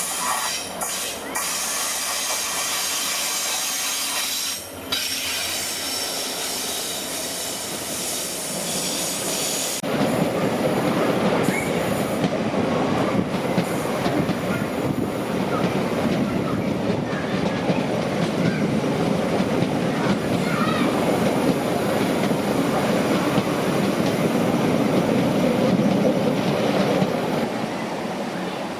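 A train on the rails: high-pitched wheel squeal over a hiss, then from about ten seconds in a louder, steady running noise of wheels on rail that eases off near the end.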